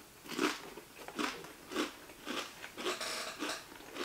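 Two people chewing mouthfuls of sushi roll, a steady run of chews about two a second.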